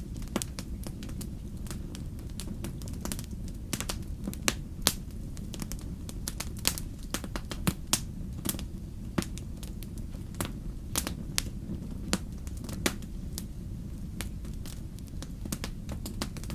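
Wood campfire burning, with irregular sharp crackles and pops scattered throughout over a steady low rumble.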